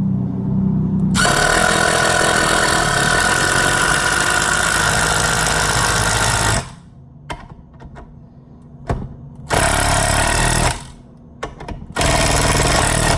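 Ryobi P234C brushed 18-volt impact driver sinking a large lag screw: the motor spins for about a second, then the impact mechanism hammers continuously for about five seconds, followed by several shorter bursts of hammering as the screw is run home.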